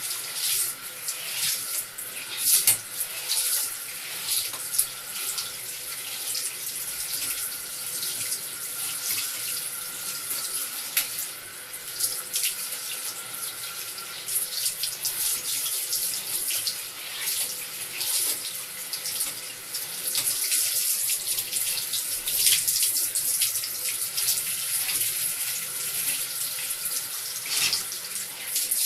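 Water running from a tap and splashing during a cat's bath, steady with irregular louder splashes.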